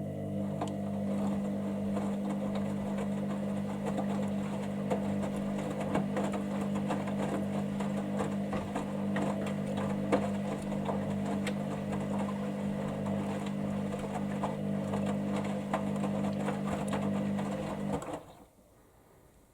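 Hoover Dynamic Next washer-dryer tumbling its drum in the main wash: a steady motor hum with small clicks and knocks from the load. It stops suddenly about 18 seconds in, the pause between turns of the drum.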